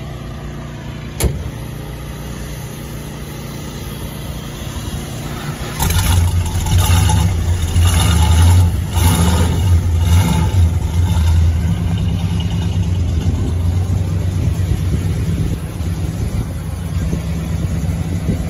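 Plymouth Belvedere's 383 V8 running at the tailpipe: idling, one sharp knock about a second in, then revved several times from about six seconds in before settling back to a steady, lumpy idle.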